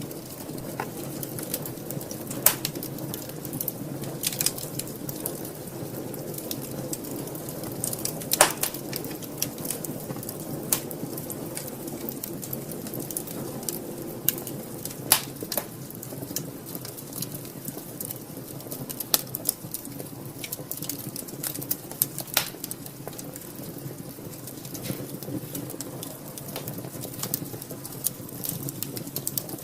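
Wood fire burning in a fireplace, crackling with irregular sharp pops over a low steady rumble of the flames; the loudest pops come about 2, 8, 15 and 22 seconds in.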